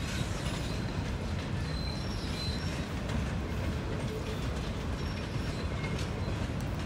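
Empty cane cars of a U.S. Sugar freight train rolling past: a steady rumble of steel wheels on the rails, with brief faint high wheel squeals about two seconds in.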